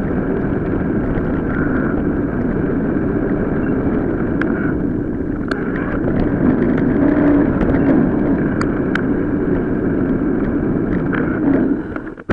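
Riding noise from an off-road bike ride played back at several times normal speed: steady wind and tyre rumble with scattered sharp clicks and rattles. It drops off sharply at the very end.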